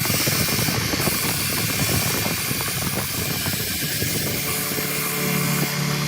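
A power tool's motor running. For the first four seconds or so its steady hum is buried under rough, irregular crackling noise, then the steady hum comes back.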